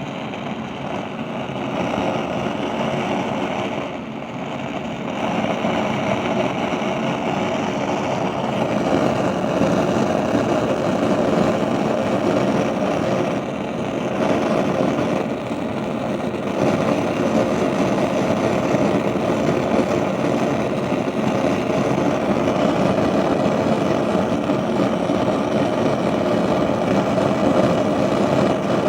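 Gas stove burner flames running with a loud, steady rushing noise that the owner says gas flames do not normally make.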